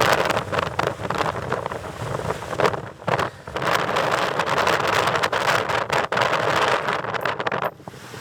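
Wind buffeting the microphone in rough gusts. It eases briefly about three seconds in and drops away near the end.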